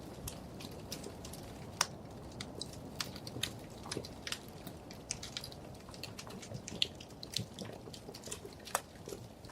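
Wood fire crackling: frequent small sharp pops and snaps at irregular moments over a low steady rumble of burning logs.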